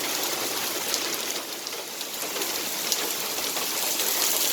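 Heavy hurricane rain pouring down, a steady dense hiss with a few sharper drop ticks, easing slightly midway and building again near the end.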